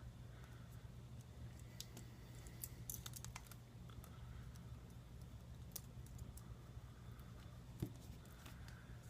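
Faint, scattered light clicks and ticks from small phone parts and tools being handled during the repair, bunched about three seconds in, over a steady low hum.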